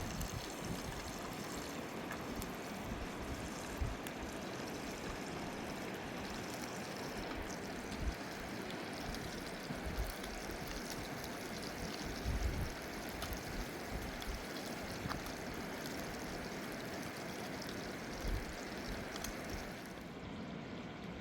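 Mountain river rushing steadily, with a few short low thumps mixed in.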